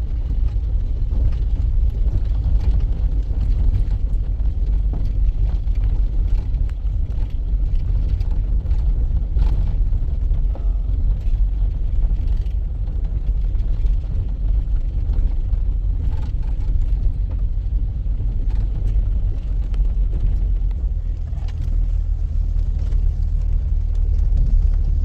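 A motor vehicle running with a steady low rumble and no clear change in pitch.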